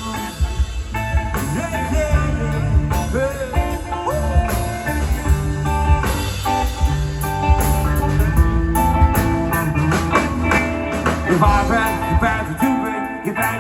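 Reggae band playing live, an instrumental stretch with a heavy bass line under guitar.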